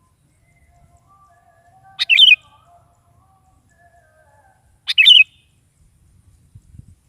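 Sooty-headed bulbul (kutilang) giving two short, loud chattering calls about three seconds apart, with faint whistled notes between them.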